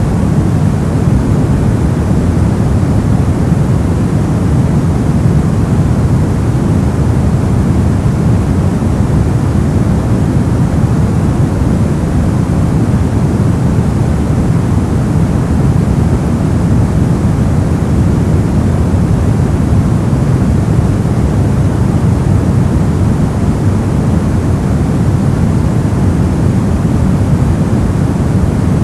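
Brown noise: a steady, loud, deep rumbling hiss, heaviest in the bass and thinning toward the treble, unchanging throughout.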